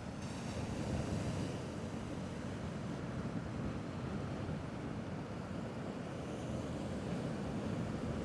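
Small sea waves washing on a rocky shore, with wind buffeting the microphone: a steady, even rushing noise.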